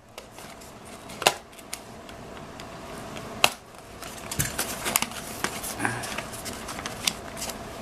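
Cardboard packing being worked loose and pulled out of a box by hand: a steady rustling and scraping, with a few sharp clicks and knocks.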